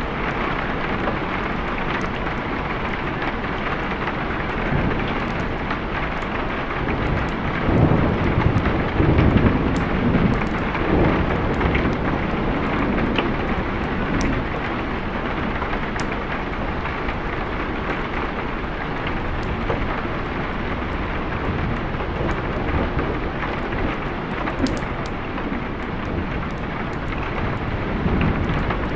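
Steady rain with low, rolling thunder. The thunder swells about a third of the way in and again near the end.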